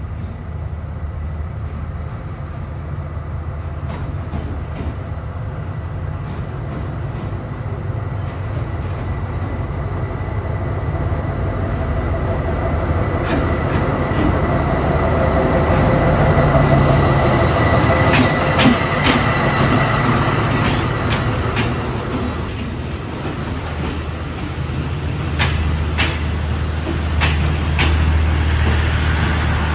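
A passenger train, hauled by an SRT Alsthom diesel-electric locomotive, rolling slowly into a station. A steady low engine rumble grows louder over the first half. From about halfway on come many sharp wheel clicks over rail joints and a thin squeal of wheels and brakes.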